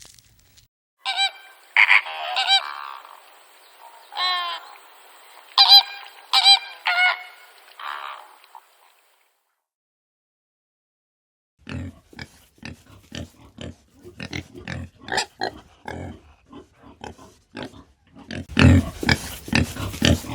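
A series of short pitched animal calls. After a pause, a pig grunts rapidly and repeatedly, growing louder near the end.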